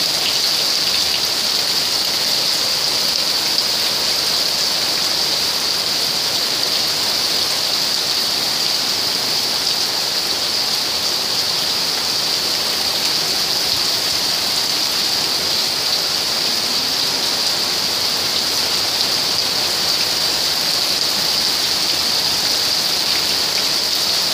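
Heavy rain and hail falling onto a yard, a dense, steady hiss that holds at the same level throughout.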